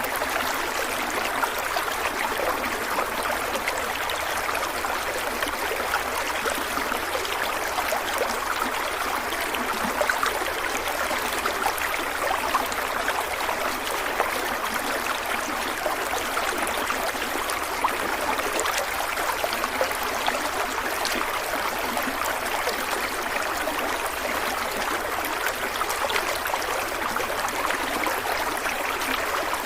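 Running stream: water flowing and burbling steadily over rocks, an even rush with small splashy gurgles.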